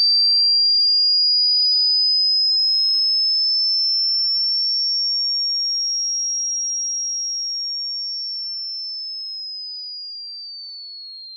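A single high-pitched pure electronic tone, rising slowly in pitch through the first half, then gliding back down over the last few seconds, growing steadily quieter throughout.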